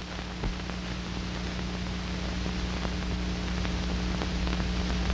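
Steady hiss and low hum of an old film soundtrack, with a few faint clicks, between lines of narration.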